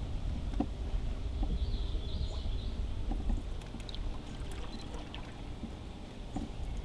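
Canoe being paddled: water swishing from the paddle, with scattered light knocks, over a steady low rumble.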